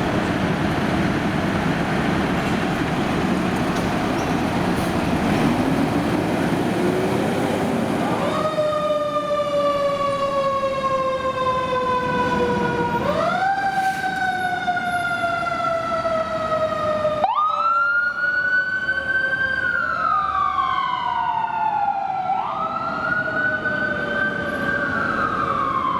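Heavy vehicle and road noise, then emergency-vehicle electronic sirens on wail from about eight seconds in: each cycle rises quickly and falls slowly, repeating every four to five seconds. After an abrupt change about two-thirds of the way through, two siren tones overlap and sweep at different rates, as the fire engine and ambulance respond together.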